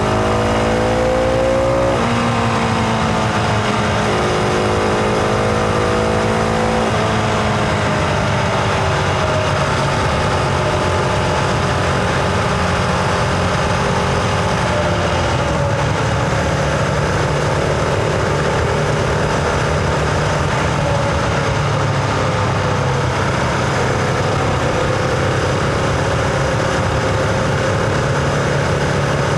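Husqvarna Vitpilen 701's single-cylinder engine pulling under acceleration, shifting up twice in the first few seconds, each time with a sudden drop in pitch, then running steadily at cruising speed with the pitch slowly easing off.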